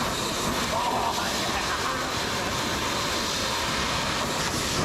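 Pressure-washer wand spraying water onto a truck's body, a steady hiss of spray.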